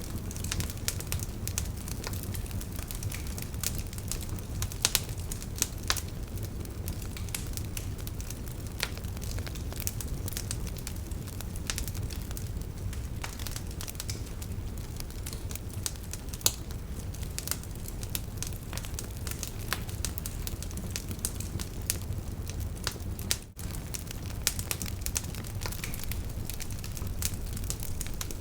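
Wood campfire crackling, with irregular sharp pops, a few of them louder, over a steady low rumble of the burning fire. A momentary dropout about 23 seconds in.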